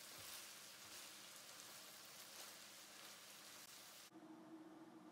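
Ground beef and mixed vegetables sizzling faintly in a frying pan as a spatula stirs them, a steady crackly hiss. About four seconds in the sound cuts abruptly to a duller noise with a low steady hum.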